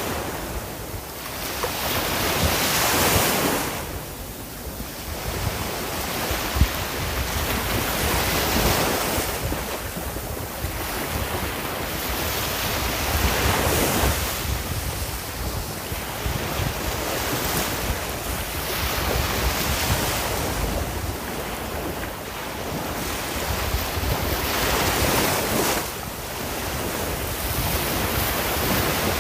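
Sea waves breaking and washing on a shore. The surf swells and falls back in repeated surges every few seconds, with a low rumble underneath.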